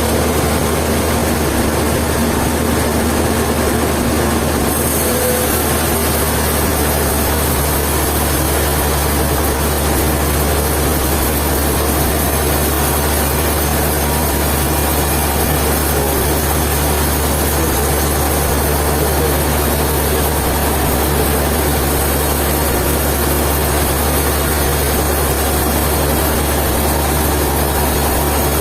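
Sawmill machinery running steadily: a low engine hum with a hiss that grows brighter about five seconds in and holds.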